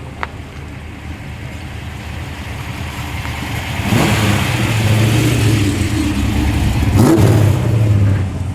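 A car engine running, growing steadily louder over the first four seconds, staying loud, then dropping away near the end, with a brief sharp crack about seven seconds in.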